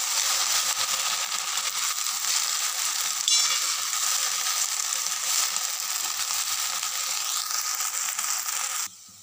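Fresh fenugreek leaves sizzling in hot oil in a steel kadhai while being stirred and turned with a metal spatula. A little past three seconds in, the spatula strikes the pan with one sharp, ringing clink. The sizzle stops abruptly near the end.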